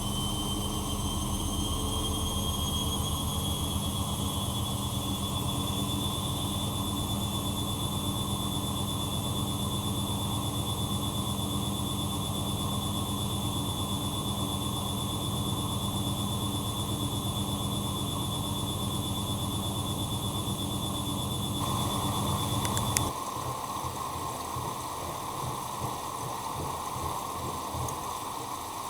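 Bosch Maxx Advantage WFCX2440 washing machine running mid-cycle: a steady motor hum with a high whine that rises slightly in pitch over the first few seconds, then holds. About 23 seconds in the motor stops with a click, and water rushing into the machine carries on.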